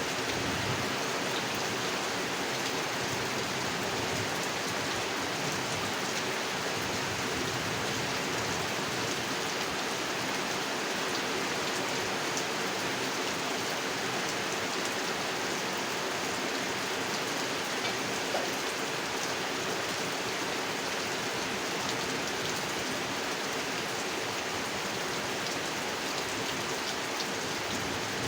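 Steady rain falling onto a pond, an even hiss of drops on water.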